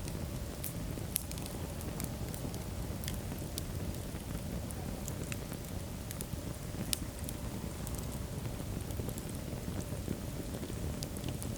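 Wood fire burning in a fireplace: a steady low rush of flames with scattered sharp crackles and pops, a couple of them a little louder.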